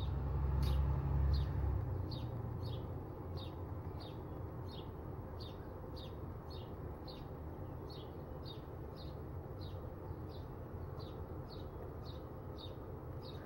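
A small bird chirping over and over, short high chirps just under two a second at an even pace, over a steady low background hum. A low rumble is loudest during the first two seconds.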